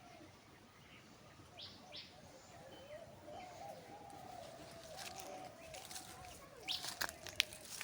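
Outdoor ambience with a few short, high bird chirps, in two pairs about a second and a half in and near the end, over a faint steady wavering tone.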